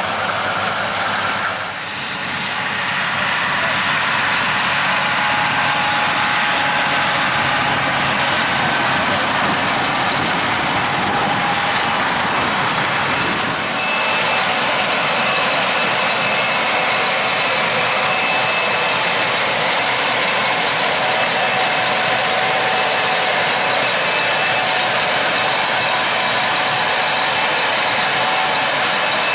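Combine harvester running while harvesting corn: a loud, steady mechanical rushing noise with faint steady whining tones.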